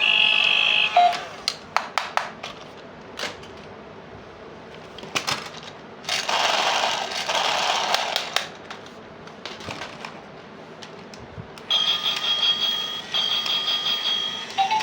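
Small plastic toy pieces handled, giving a run of light clicks and taps, then a few seconds of crinkly rustling. About three quarters in, an electronic toy starts a bright repeating beep-and-chime pattern.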